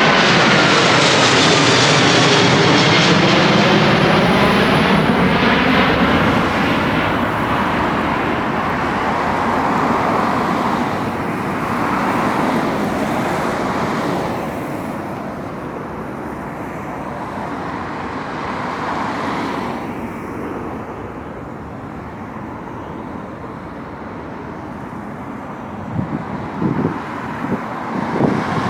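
Widebody jet airliner climbing out overhead after takeoff: loud at first with a falling-pitch engine whine as it passes, then a broad engine rumble that slowly fades as it flies away. A few low thumps near the end.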